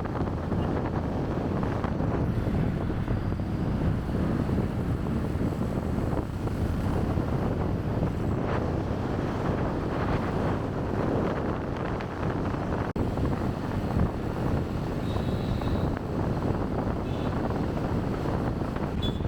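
Wind buffeting the microphone of a chest-mounted camera on a moving motorbike, over a steady rush of engine and road noise.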